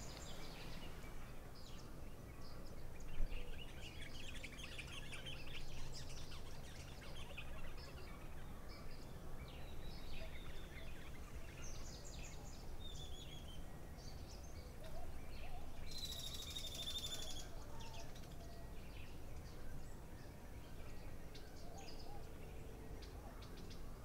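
Wild birds chirping and calling, with short high calls scattered throughout and one louder call lasting about a second about two-thirds of the way in, over a faint steady low hum.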